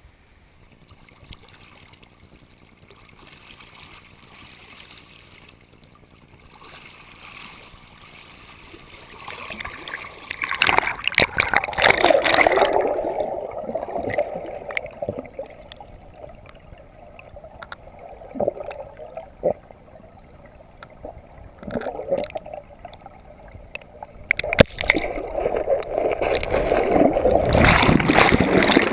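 Water splashing and gurgling close by in several bouts of a few seconds each, after a quiet start.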